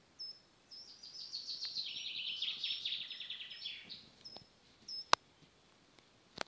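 A songbird singing: short high notes, then a fast trill of repeated notes lasting about three seconds, then a few more short notes. A sharp click about five seconds in and a smaller one near the end.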